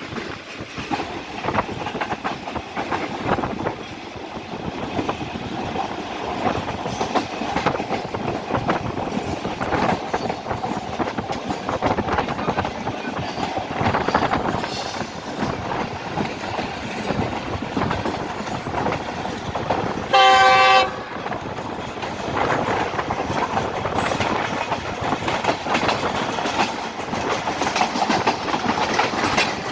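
Express passenger train running along the track with a steady rattle and clickety-clack of the wheels. About two-thirds of the way through, the locomotive sounds one short horn blast of under a second.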